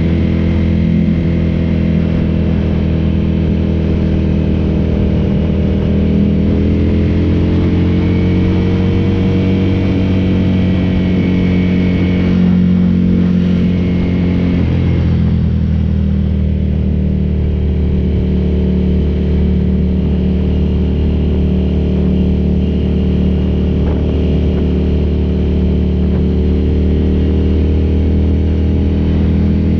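Ducati café racer motorcycle engine under way, its pitch climbing for several seconds, then dropping suddenly about halfway through as the rider shifts up or eases off, then running steadily.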